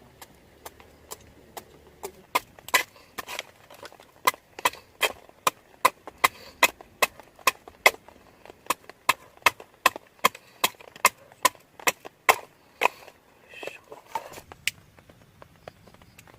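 Rapid, regular sharp strikes, about two or three a second, starting about two seconds in and stopping near the end.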